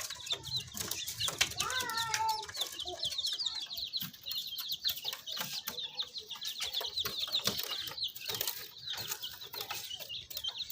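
A brood of baby chicks peeping continuously, many quick high-pitched cheeps overlapping, with scattered light taps among them.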